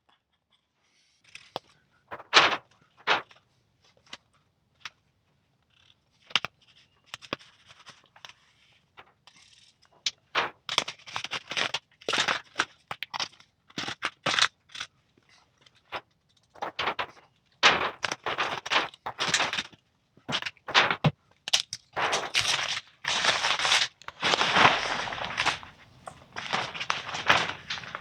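Clear plastic patterning sheet crinkling and crackling as it is handled and smoothed into place, in irregular bursts that grow denser and louder over the second half.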